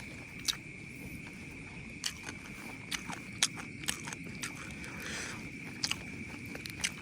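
A person eating close to the microphone, with irregular wet chewing clicks and lip smacks. Under it runs a steady high-pitched insect drone.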